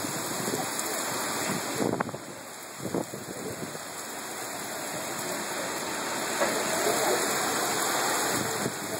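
Heavy thunderstorm rain pouring down on pavement and parked cars, a steady hiss that grows slowly louder, with a couple of brief low bumps about two and three seconds in.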